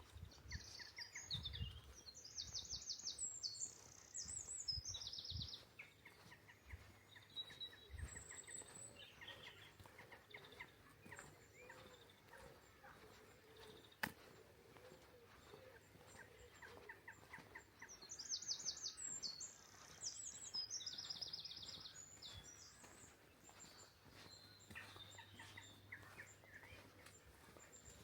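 A songbird singing two bursts of fast, high trilled phrases, one a second or so in and another about eighteen seconds in, with fainter chirps in between.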